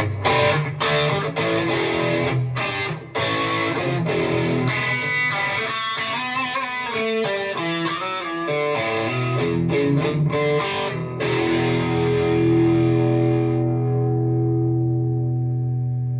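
Distorted electric guitar played through a FlatBack amp simulation on a Two Notes Opus: a riff of short, choppy chords and notes, then a final chord left to ring and slowly fade over the last few seconds.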